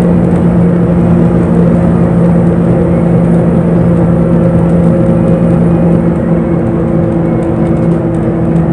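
Bus engine and road noise heard inside the moving bus: a steady droning hum over a rumble, with the engine note easing off near the end.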